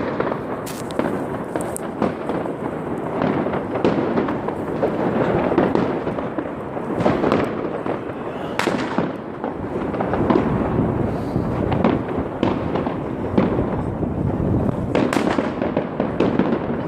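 Many fireworks and firecrackers going off at once, a dense run of overlapping bangs and crackling with no pause.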